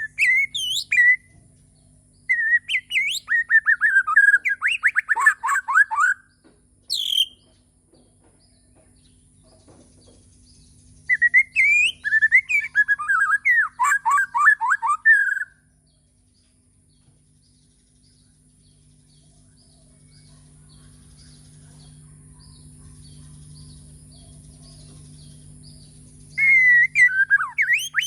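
A murai batu (Bornean shama) singing in separate bursts: whistled, gliding phrases that run into fast strings of repeated notes, with long pauses between songs. A faint steady hum runs underneath.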